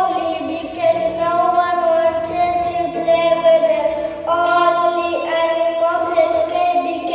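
Children singing a song in long held notes over an instrumental accompaniment whose low notes step from one pitch to the next.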